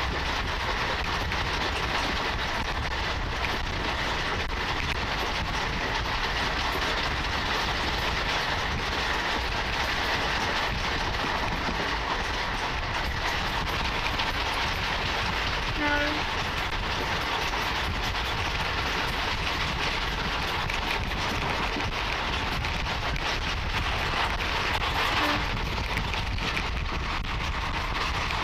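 Steady running noise of a moving train heard from aboard: wheels on the rails and rushing air, with a short pitched sound about halfway through.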